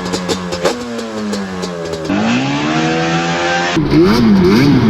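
Loud car exhaust in three short spliced clips: a steady engine note with sharp pops, then a rising rev, then a note wavering up and down.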